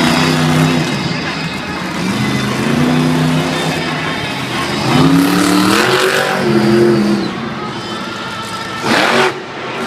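Monster truck's supercharged V8 engine revving hard, its pitch rising and falling in several long surges. A brief loud rush of noise comes near the end.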